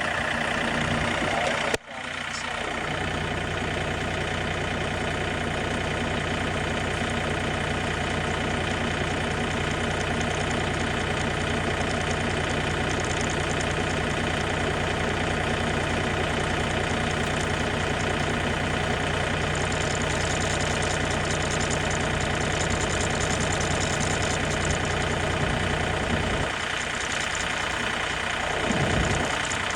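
John Deere tractor engine idling steadily. The sound cuts out suddenly for a moment about two seconds in, and the low part of the sound shifts briefly near the end.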